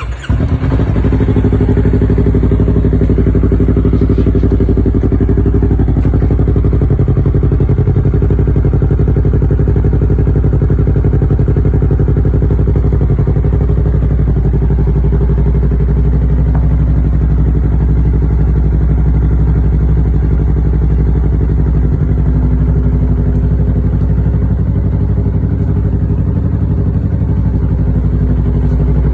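Yamaha YZF-R3 parallel-twin engine through a Yoshimura R-77 exhaust, starting up and then idling steadily, its pitch holding level throughout.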